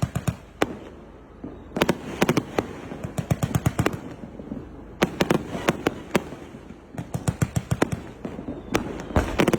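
A 1.2-inch, 318-shot fireworks cake firing: volleys of sharp, rapid reports, several in quick succession, with short quieter gaps between volleys.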